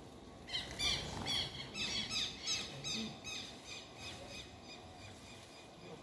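A songbird calling a quick run of short chirps that sweep downward in pitch, about four a second. The run lasts about three seconds and then fades out.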